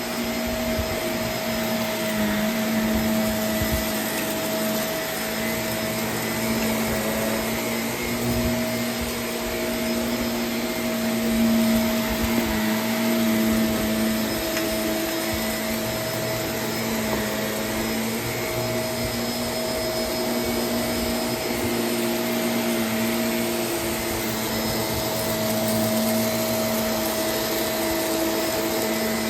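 Vacuum cleaner running steadily, a continuous motor hum and airflow rush with small swells in loudness.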